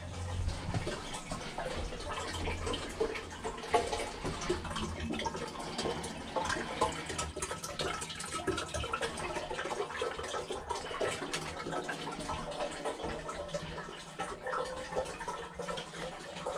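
Water running and trickling, dotted with many small clicks and knocks throughout.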